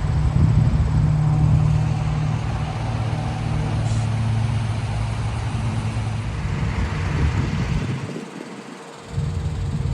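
Steady low rumble of a running vehicle engine, with a noisy hiss over it; the low rumble drops away for about a second near the end.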